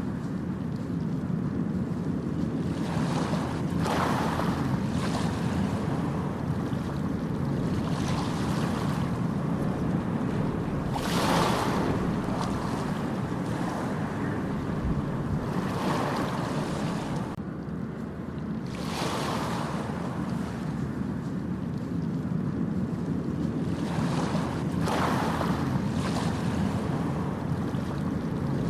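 Ocean waves breaking and washing up a beach, a swell of surf hiss every five to seven seconds over a constant low rumble, with wind buffeting the microphone.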